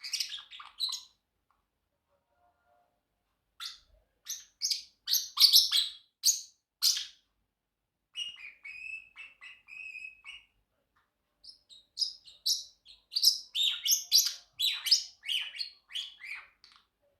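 Pacific parrotlet chirping: quick groups of short, sharp, high chirps separated by pauses of a second or two, with a run of lower, softer warbling chatter in the middle.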